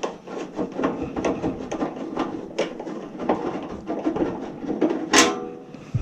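Metal clicks and rattling from handling an electrical breaker panel's cover and its screws, with one louder clank that rings briefly about five seconds in.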